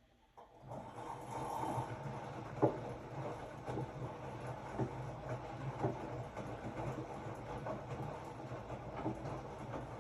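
Hotpoint-Ariston RSG 825 J washing machine starting up again after a pause, its motor and drum settling into a steady hum with irregular knocks and clunks from the load tumbling in the drum.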